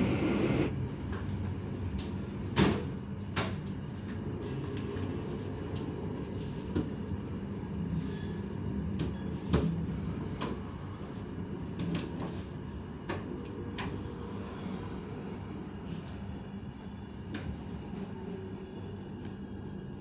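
Passenger train carriage rolling slowly into a station: a steady low rumble with irregular sharp clicks and knocks from the car.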